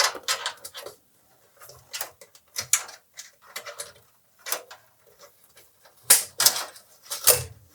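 Irregular plastic clicks and knocks of a PC case fan being handled and fitted back into its mount, with a louder cluster of knocks near the end.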